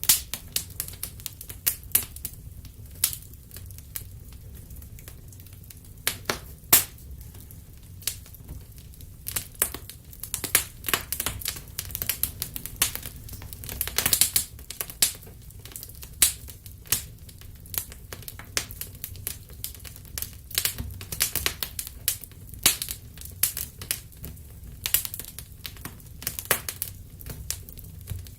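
Wood fire crackling: irregular sharp pops and snaps, some in quick clusters, over a steady low rumble of burning.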